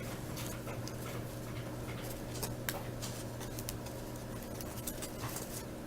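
Faint light clicks of football trading cards and a card pack being handled, over a steady low hum.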